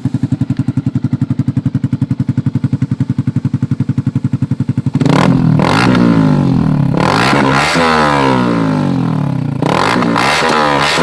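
Yamaha R15's single-cylinder engine through an SC Project aftermarket exhaust, idling with an even rapid pulse, then revved up and down repeatedly from about five seconds in, with short sharp cracks among the revs.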